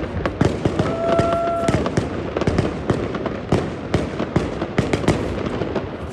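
Fireworks bursting in a dense barrage: many sharp bangs and crackles in quick succession, with a short steady whistle about a second in.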